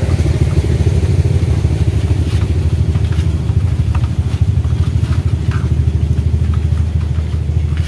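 A vehicle engine idling with a steady low rumble, with a few faint clicks over it.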